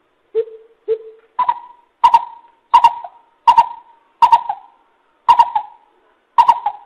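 Coucal (bubut) calling: a run of hollow hoots, the first two lower, then about seven higher ones at a steady pace of a little over one a second.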